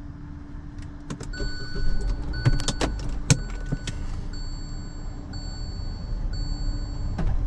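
Car cabin sounds: clicks and knocks of someone settling into the seat and handling the key fob, and the car's electronic warning chime sounding as a high steady tone in long beeps about once a second. A steady low hum runs underneath.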